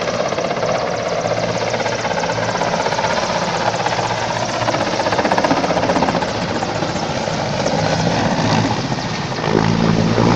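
Aircraft noise, loud and steady, with a fast fine flutter throughout. A low hum joins in near the end.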